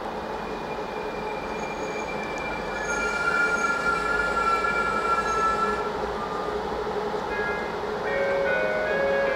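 EuroCity passenger train rolling through the station with a steady rumble, its wheels and brakes squealing in long high-pitched tones during the middle seconds. Shorter squeals at several pitches come near the end.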